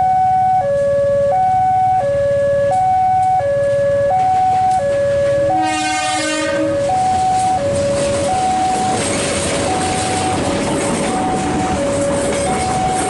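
Two-tone electronic warning alarm at a railway level crossing, alternating high and low tones about every 0.7 seconds. A short train horn blast sounds about six seconds in, and the rumble of the approaching passenger train grows from about eight seconds on.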